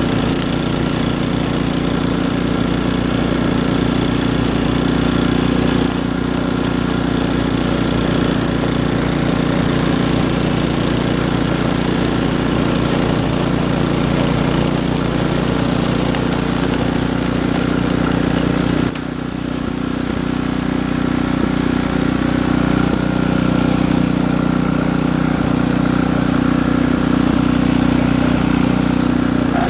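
Gas snowblower engine running steadily. Its level dips briefly about two-thirds of the way through, then picks back up.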